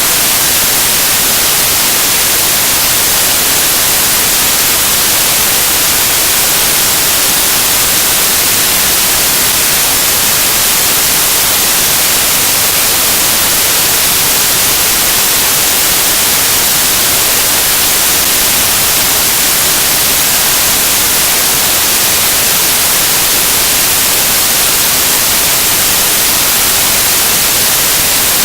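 Loud, steady static hiss like white noise, strongest in the treble, unchanging throughout.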